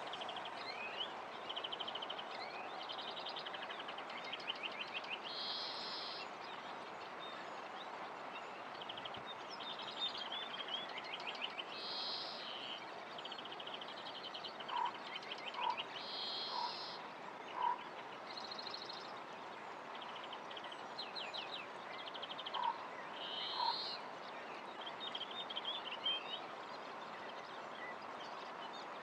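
Several birds singing, repeating short high trills and chirps over a steady background hiss. A few short, lower single notes about a second apart come in about halfway through and again near the end.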